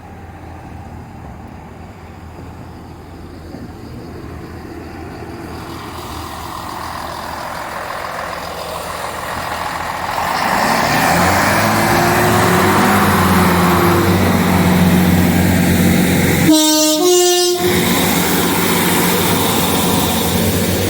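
Diesel multiple unit including a Class 153 railcar drawing near and passing, its engine note growing louder and rising in pitch. It sounds its two-tone horn near the end: a short low note followed at once by a slightly higher one.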